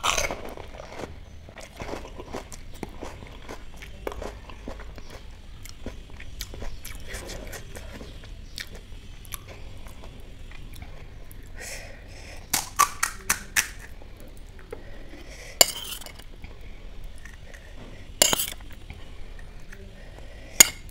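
Close-up crunching and wet chewing of a whole panipuri, a crisp fried puri shell filled with spicy pani, starting with a loud crunch as it is bitten. Later a spoon clinks against the serving bowls: a quick run of four clinks about two-thirds of the way through, then two more single clinks.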